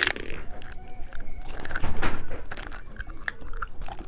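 Close-miked biting and chewing of a hamburger-shaped candy, with short wet clicks and small crunches and a louder burst of chewing about two seconds in.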